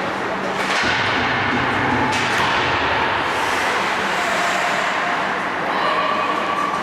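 Ice hockey game noise in a rink: a steady wash of skates on ice, with faint distant voices.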